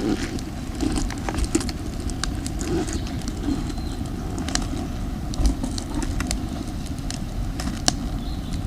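Campfire of damp firewood crackling, with irregular sharp pops and snaps over a steady low rumble.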